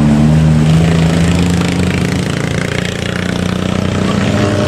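A vehicle engine running steadily with a deep hum, strongest in the first second or two.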